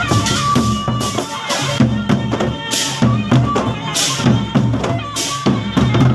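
Gendang beleq ensemble playing: large Sasak barrel drums beat in a steady rhythm of about two strokes a second, with cymbal clashes and a held melody line above.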